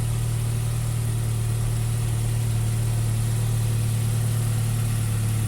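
Saab 9-3 Turbo engine idling steadily, its exhaust leak freshly patched by welding, and the exhaust note a little better.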